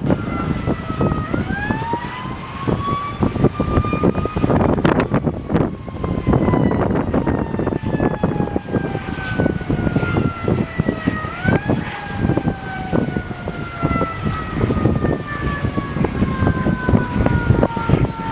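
A siren wailing, its pitch sweeping up twice and sliding slowly down for several seconds after each rise, over heavy low rumbling and buffeting noise.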